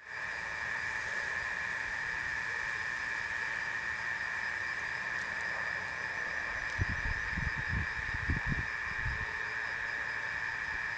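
Steady chorus of night insects, a continuous high shrill with a faint pulsing upper note. Irregular low rumbles come in about seven seconds in and fade by nine.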